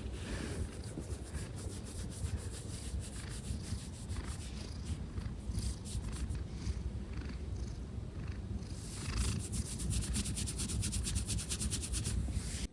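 Domestic cat purring close to the microphone, a low steady rumble, with soft clicks over it that come quickly near the end.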